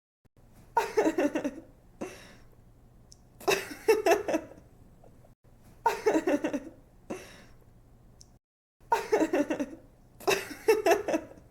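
A young woman laughing in five separate bouts a couple of seconds apart, each a quick run of giggling "ha" pulses.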